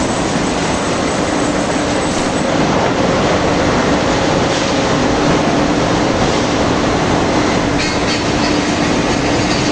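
Steel rebar rolling mill machinery running: a loud, steady mechanical din with a low steady hum underneath.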